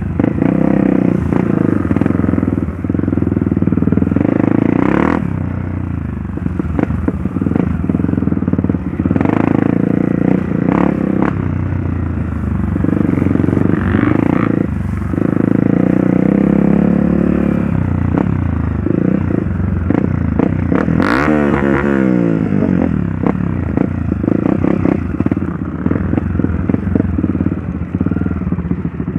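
Trail motorcycle engine running under way on a dirt trail, its pitch rising and falling with the throttle, with one sharp rev about three quarters of the way through. Short knocks and clatter from the bike and trail run through it.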